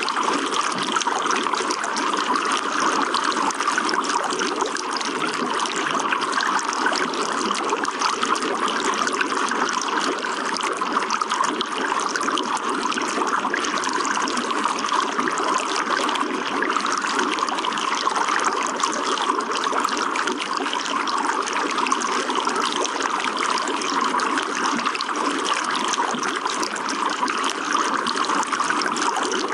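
Water trickling and flowing steadily, an even, unbroken splashing.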